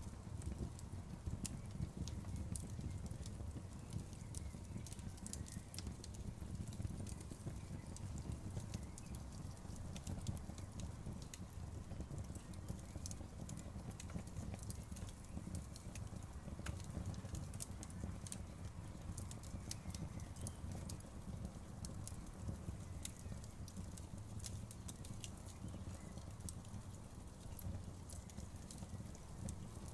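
Wood fire burning with frequent irregular sharp crackles and pops over a low steady rumble.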